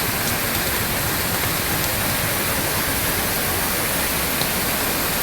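Falling water hissing steadily and evenly, like heavy rain or water pouring down.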